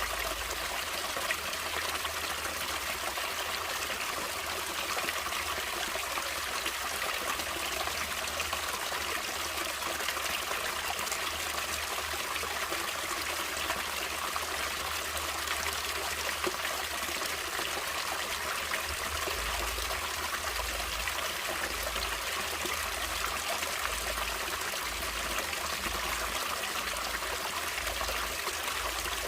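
Natural stream of running water, trickling steadily with an even, unbroken hiss.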